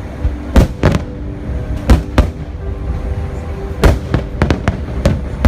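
Aerial firework shells bursting: about eight sharp booms, often in quick pairs and one tight cluster, over music with long held notes.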